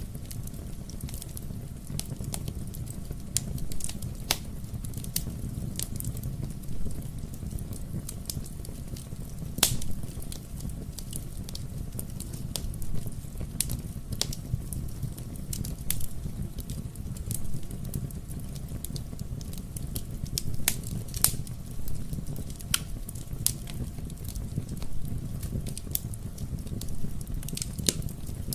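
Wood fire crackling in a fireplace: a steady low rumble of burning with irregular sharp pops and snaps, a few of them louder.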